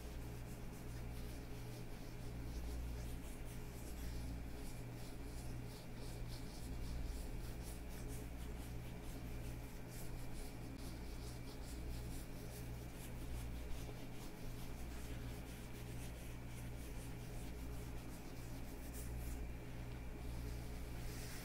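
Leather gloves on hands rubbing together close to the microphone: a continuous run of small scratchy crackles and creaks, over a steady low hum.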